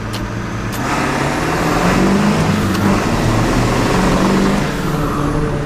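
Ford Super Duty's 7.3 Powerstroke turbo-diesel V8 accelerating through a 4-inch straight-pipe exhaust, the turbo's whistle clearly audible over the engine. It swells about a second in and eases off near the end; the turbo is way louder than before the straight pipe.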